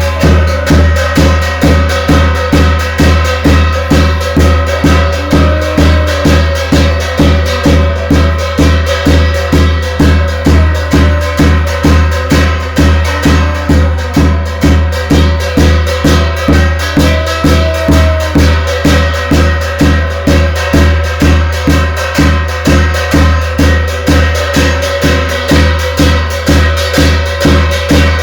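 Korean shamanic gut ritual music: a drum beats steadily about twice a second under long, slightly wavering melodic notes.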